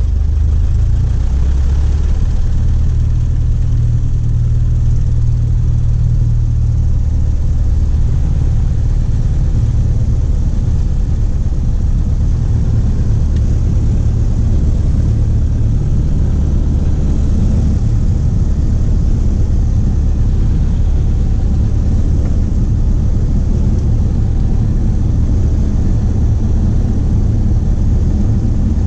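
Cessna 152's Lycoming O-235 four-cylinder engine and propeller running steadily with a loud, even drone, its note shifting slightly in the first few seconds.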